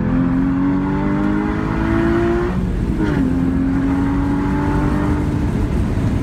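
Porsche Cayman GT4's flat-six engine under hard acceleration heard from inside the cabin: the note climbs steadily, drops in pitch at an upshift about two and a half seconds in, climbs again in the next gear, then eases off near the end.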